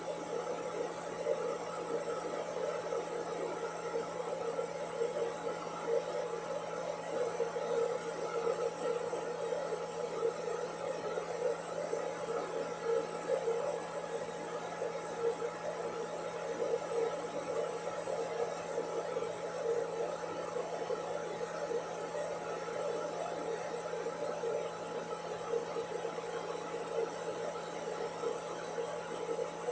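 Hair dryer running steadily, played back from a recording: an even rushing whir with a fixed hum through it.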